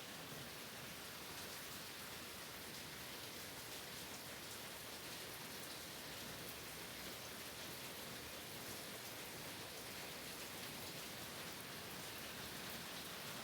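Steady rain falling on a wooden cabin: an even hiss with many fine drop ticks, unchanging throughout.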